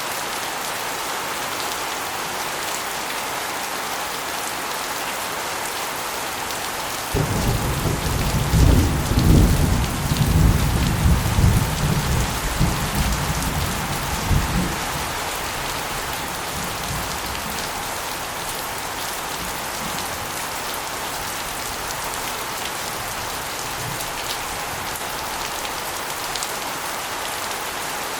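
Steady rain, with water spilling off an asbestos roof and splashing onto a concrete floor and walls. About seven seconds in, a low rumble of thunder starts suddenly, rolls for several seconds and fades.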